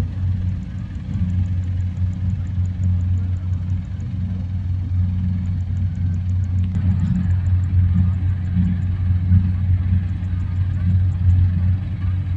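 Rice combine harvester engine running steadily, a continuous low drone. A faint, rapid high ticking comes and goes over it.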